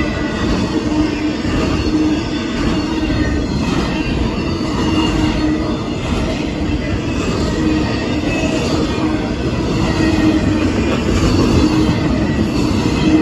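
Double-stack container cars of a Union Pacific intermodal freight train rolling steadily past: a continuous rumble of wheels on the rails, with some wheel squeal.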